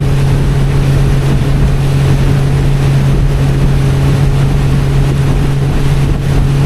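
A motorboat's engine runs steadily at speed with a constant drone, under a rush of water and wind noise on the microphone.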